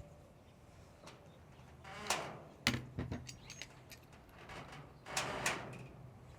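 Small metal gun parts clinking and scraping while the screws of the Picatinny rail under an FN SCAR barrel assembly are worked out with a hex wrench. There are two clusters of sharp clicks and brief scrapes, about two seconds in and again about five seconds in.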